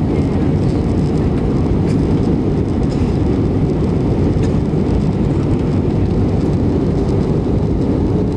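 Steady low roar of an airliner's engines and rushing air, heard inside the passenger cabin in flight.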